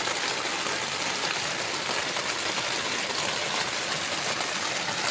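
Heavy rain pouring steadily onto a tent, heard from inside as a dense, even hiss.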